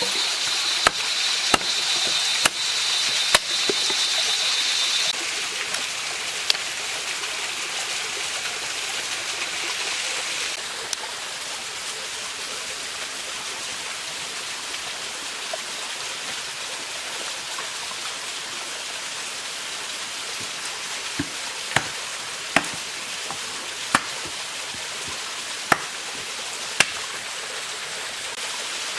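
Mountain stream running steadily, with sharp chopping knocks now and then: four in the first few seconds and a series of about six in the last eight seconds. A steady high whine sounds over the first five seconds.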